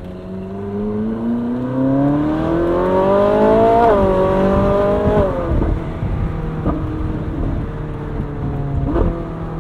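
The 2013 Ferrari 458 Spider's naturally aspirated 4.5-litre V8 accelerating hard, its pitch climbing steadily and growing louder for about four seconds. The note dips briefly at a quick dual-clutch upshift, then falls away about five seconds in, and the engine runs on at a steadier, lower pitch with a couple of sharp ticks.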